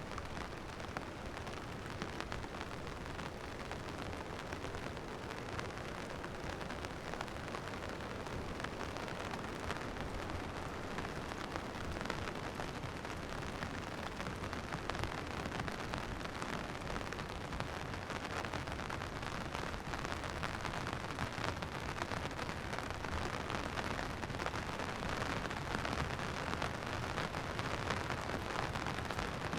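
Steady rain falling, a continuous hiss of drops that gets a little louder toward the end.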